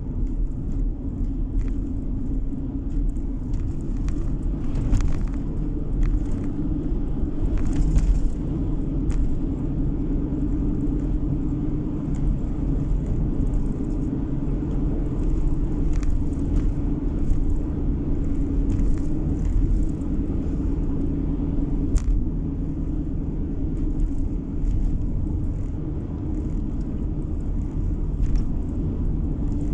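Steady road and engine rumble of a moving car heard from inside the cabin, with a few small clicks and knocks.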